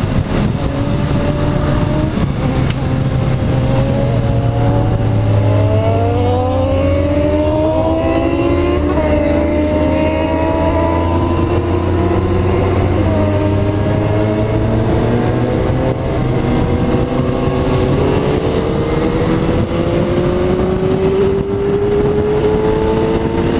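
Kawasaki Z motorcycle engine heard from the rider's seat, under way, its pitch rising in several sweeps and dropping back as it accelerates and changes gear, over a heavy rush of wind on the microphone.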